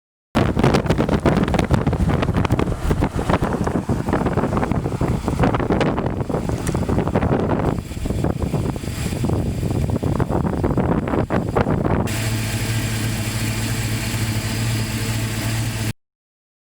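Strong wind buffeting the microphone as a loud, rough roar full of crackles and pops. About twelve seconds in it cuts abruptly to a steadier, lower hum with a pronounced low tone, which stops suddenly near the end.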